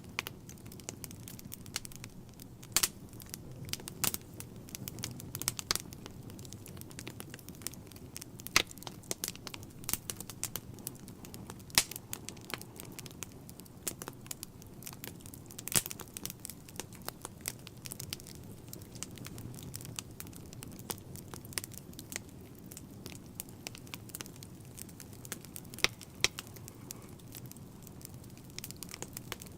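Wood fire burning in a fireplace: irregular sharp crackles and pops, some louder than others, over a soft steady hiss of flames.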